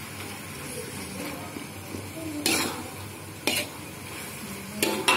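Eel and daun singkil leaves frying in an aluminium wok with a steady sizzle, stirred with a metal spoon. The spoon scrapes and clinks sharply against the wok a few times in the second half.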